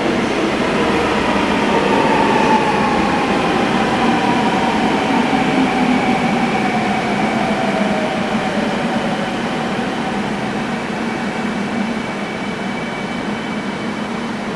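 Daejeon Metro Line 1 train pulling into a station and slowing to a stop. The whine of its electric traction motors glides steadily downward as it brakes, over the rumble of the cars, and the sound slowly fades.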